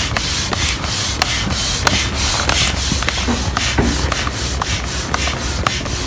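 Air pump inflating an inflatable kayak's side chambers: rhythmic strokes, about two to three a second, each a rush of air, with light clicks from the pump.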